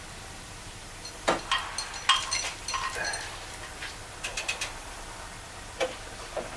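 Metal parts clicking and clinking against each other, a dozen or so sharp knocks between about one and five seconds in, some ringing briefly, then two more near the end, as a mounting bolt is worked into the outboard motor's bracket.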